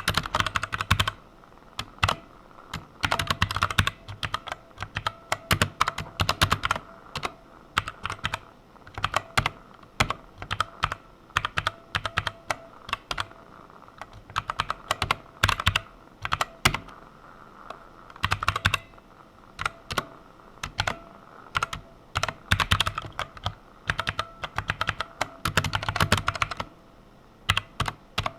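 Typing on a computer keyboard in quick runs of keystrokes broken by short pauses.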